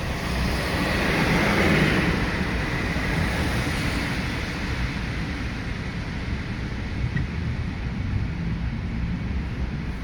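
Road noise heard from inside a moving car on a wet road: a steady low rumble with a tyre hiss that swells about a second or two in, then settles.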